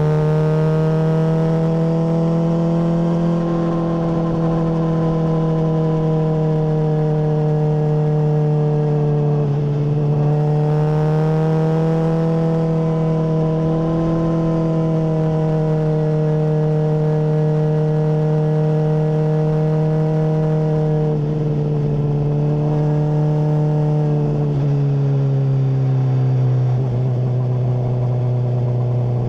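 Honda CBR600RR's inline-four engine running through a MIVV full exhaust under way, holding a fairly steady pitch at moderate revs. The pitch dips briefly twice, around ten and twenty-one seconds in, and drops to a lower, steady note about twenty-five seconds in.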